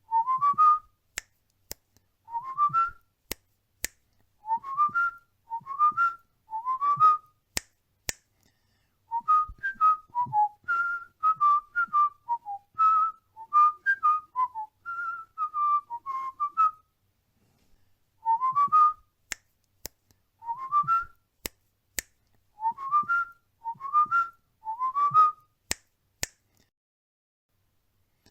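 Cockatiel whistling a learned tune: short rising whistled phrases repeated in groups, with a longer run of up-and-down melody notes in the middle. Sharp clicks fall between the phrases.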